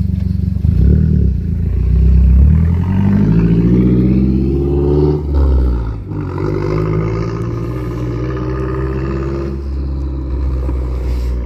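Mazdaspeed3's turbocharged 2.3-litre four-cylinder accelerating hard from a standstill, rising in pitch, with a gear change about five seconds in, then pulling again in the next gear and easing off near the end. The exhaust is loud enough to have drawn a noise ticket, and a sound meter reads about 87 dB during the pull.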